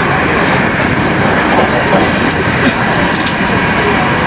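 Cabin running noise of a Hankyu 7000 series electric train at speed: a steady rumble of wheels on rail, with a few sharp clicks about two and three seconds in.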